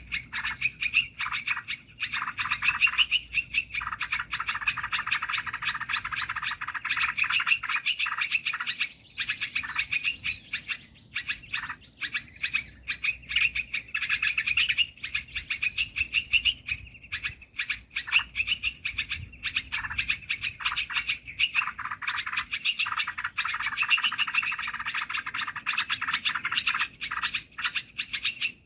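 Bird-trapping lure call for bulbuls: a dense, rapid chattering of small birds calling, with harsher scolding stretches about four seconds in and again near the end, and a faint steady high whine throughout.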